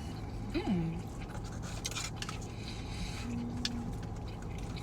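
Eating sounds from a fast-food meal: scattered clicks and scrapes of food containers and packaging being handled and chewing, over a steady low rumble. Two short pitched sounds break in, one about half a second in and one around three and a half seconds in.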